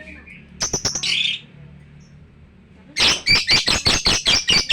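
Lovebird chirping: a short burst of shrill calls under a second in, then from about three seconds a loud, rapid run of sharp chirps, roughly six a second.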